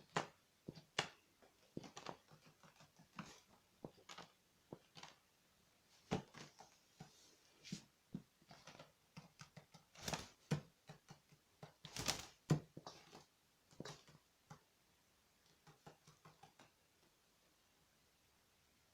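Irregular light taps, clicks and scrapes from a pet magpie's beak and claws as it hops about and pecks at a spider on a hard surface, with a few louder strokes about ten and twelve seconds in.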